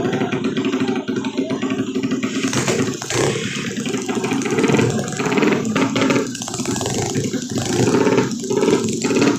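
Drag-racing motorcycle engine running, its revs rising and falling unevenly.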